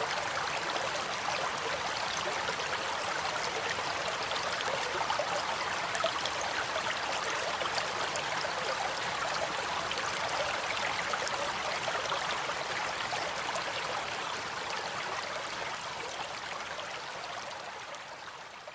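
Stream water flowing steadily: a dense, even rush with small trickling splashes through it, fading out near the end.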